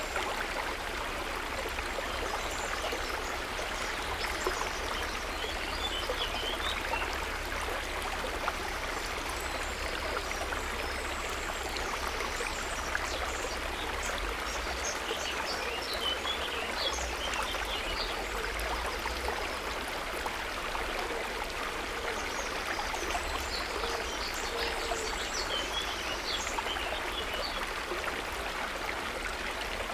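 River water running steadily, a constant rush with scattered brief high-pitched sounds over it.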